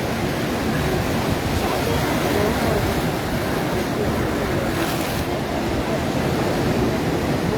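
Atlantic surf washing onto the beach in a steady, continuous rush, with wind on the microphone.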